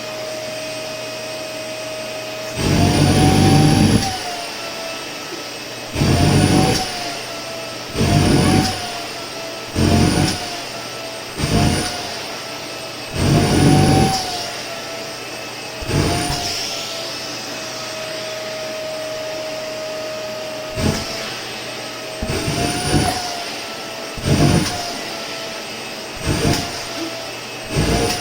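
Vacuum cleaner motor running with a steady whine, vacuuming a cushion. About a dozen times, 1 to 3 seconds apart, the nozzle strokes over the fabric and gives a louder rush of suction while the motor's pitch briefly rises. Midway there is a steady stretch with no strokes.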